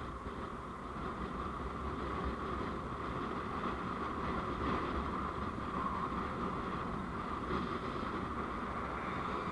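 Steady road and engine noise of a moving vehicle, as picked up by a dashcam, growing a little louder after about a second.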